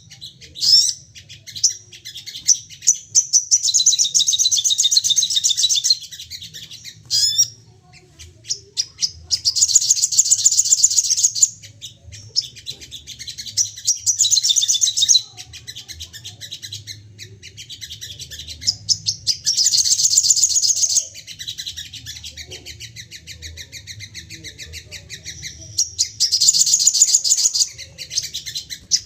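Sogon (spiderhunter) song: loud, high-pitched rapid chattering trills in bursts of about two seconds, five times, with quick sharp chips in between. This is the agitated, repeated 'nembak' singing used to provoke other sogon birds to sing. A faint steady low hum sits underneath.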